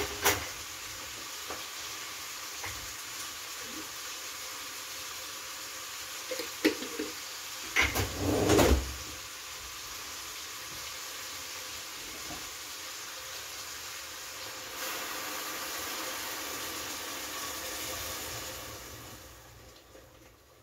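Chicken frying in a pot on a gas burner, a steady sizzle, with a few knocks of a spoon against the pot and a louder clatter about eight seconds in. Near the end water is poured in from a kettle and the sizzle dies down.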